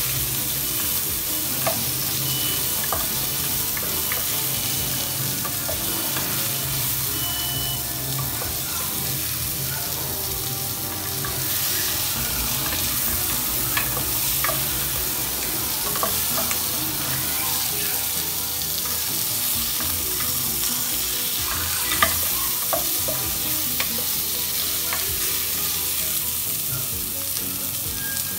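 Chopped onion and tomato sizzling in hot oil in a pot, stirred with a wooden spoon that scrapes and knocks against the pot now and then, with one sharper knock a little past the middle.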